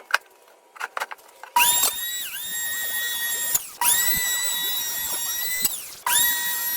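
Electric hand planer's motor started three times, each time spinning up to a high, steady whine and running for about two seconds before stopping. A few clicks of handling come just before the first start.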